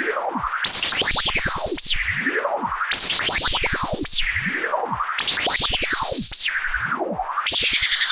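Synthesizer sound through a Patching Panda Vibrazum Mk2 triple resonant Eurorack filter, its resonant peaks swept by a control voltage. Several whistling resonances glide down together, some crossing on the way. The sweep repeats about every two and a quarter seconds over a fast pulsing tone.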